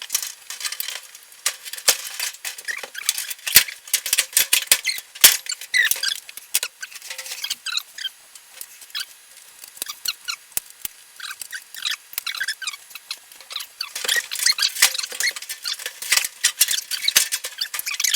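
Dense, irregular clicking and rattling with many short squeaks as a dryer's sheet-metal front panel and its parts are handled and fitted back on.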